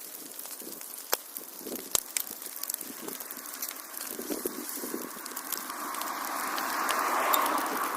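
Fireplace fire crackling, with sharp irregular pops and a hiss that swells over the last few seconds.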